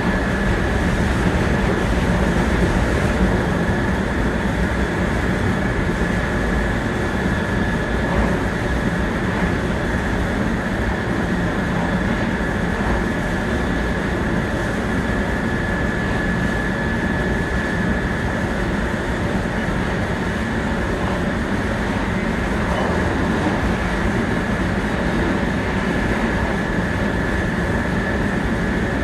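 700 series Shinkansen running at steady speed, heard from inside the car: an even rumble and rush of running noise with a steady high tone above it.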